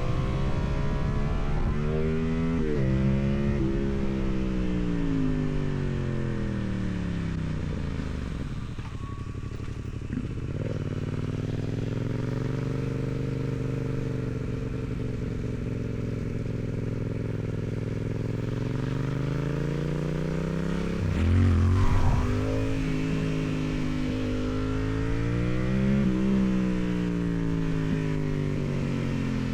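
Yamaha MT-07's parallel-twin engine through its stock exhaust, heard from the bike while riding: the revs rise and fall with the throttle and gear changes, falling away for several seconds as the rider rolls off, climbing slowly again, with a sharp rev change a little past the middle and another shift near the end. Wind rushes over the microphone.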